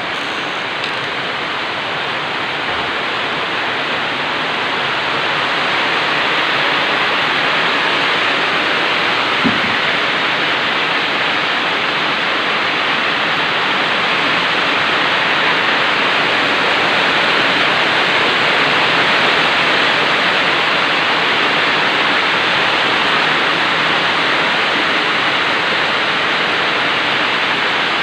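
Very heavy rain pouring down in a steady, dense hiss that grows a little louder over the first few seconds. There is one brief soft knock about nine seconds in.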